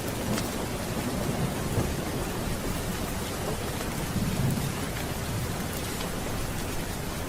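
Steady rain with low, rolling thunder underneath that swells briefly about four seconds in.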